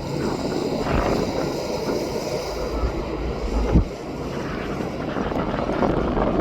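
Jet airliner engine noise at the airport, a steady rushing rumble, with wind buffeting the microphone and one low thump a little past the middle.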